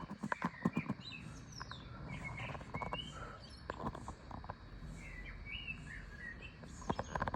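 Songbirds chirping and singing in short rising and falling phrases over a light background hiss, with a few short clicks in the first second and again just before the end.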